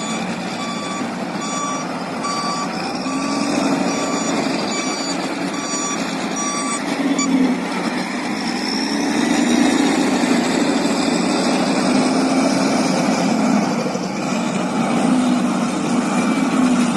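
A vehicle's reversing beeper sounding short, evenly spaced beeps, which stop about seven seconds in, over a running engine whose drone rises and falls.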